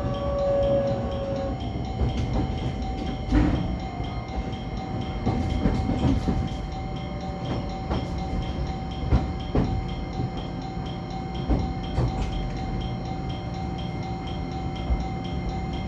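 125-series electric railcar running along the line: a steady low rumble with a steady whine over it, and wheels clicking over rail joints at irregular intervals.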